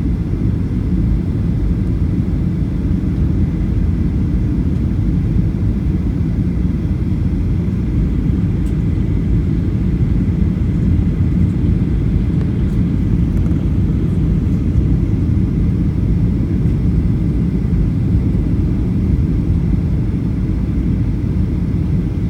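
Steady low rumble of a Boeing 737-800's cabin, from its CFM56 jet engines and the airflow, heard from a passenger seat.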